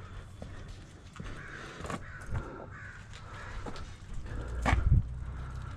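Birds cawing several times outdoors, with a few light knocks. A louder low thump comes about five seconds in.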